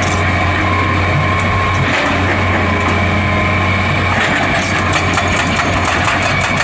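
An excavator's diesel engine running at a steady pitch, with no clear hammer blows.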